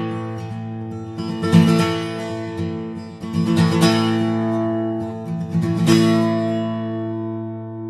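Background music: strummed acoustic guitar chords, the last chord left ringing and fading.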